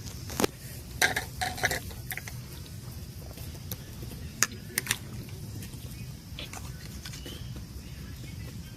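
Scattered clinks and taps of cooking utensils against pans and dishes, over a steady faint hiss.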